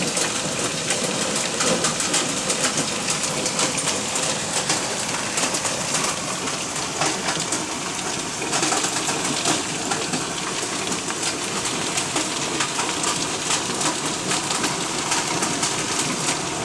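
Heavy hail falling with rain: a dense, steady hiss of rain peppered with countless fast hailstone strikes.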